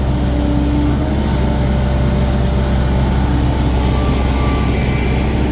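Heavy diesel engine running steadily at a low, even speed, a continuous deep drone.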